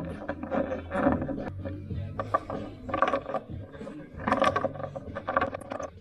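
Irregular mechanical clicking and clattering over a low steady hum.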